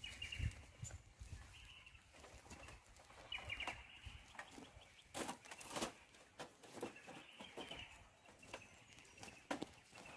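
Faint bird calls, short chirps repeating every second or two, with a few sharp clicks and knocks in between.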